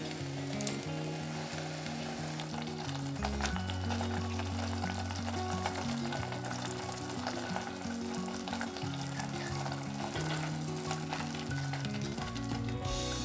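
Food sizzling and crackling in hot oil in a pan, steady throughout, under soft background music.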